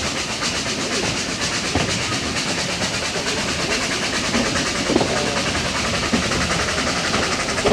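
Narrow-gauge steam locomotive working hard uphill, chuffing steadily, heard from an open balcony carriage over the rumble of the wheels on the rails, with an occasional sharp clack from the track.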